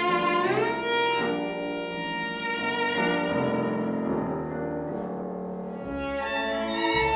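Live chamber ensemble playing, a violin leading over lower strings, with notes that slide up and down in pitch.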